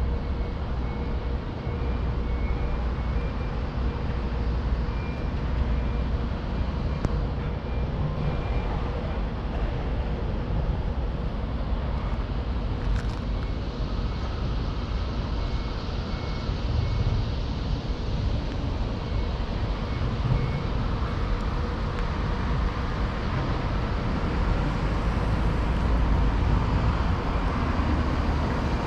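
Steady rumble of road traffic. A faint high beeping repeats several times a second during two stretches.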